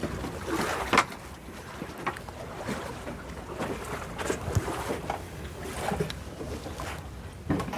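Small wind-driven waves lapping and splashing irregularly against the lake edge, with one louder slap about a second in, and wind in the background.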